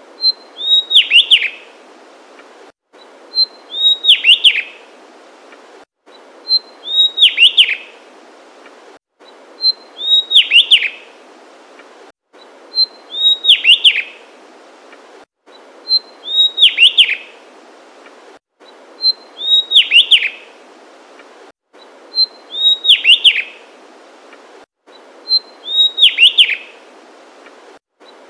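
Javan tesia singing: a short high note followed by a quick run of five or six sharp whistled notes that hook and drop in pitch. The identical phrase repeats about every three seconds, with the background hiss cutting out briefly before each one, as in a looped recording.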